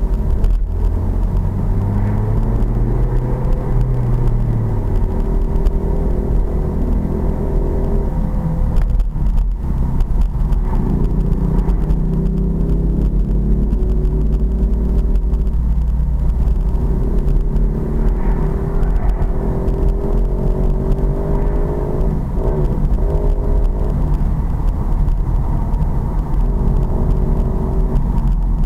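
Pit bike engine running under way, its pitch rising and falling with the throttle, over a steady low rumble.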